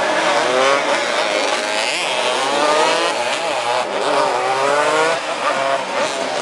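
200 cc racing motorcycles at full throttle, their engines revving up through the gears in repeated rising sweeps as they race past.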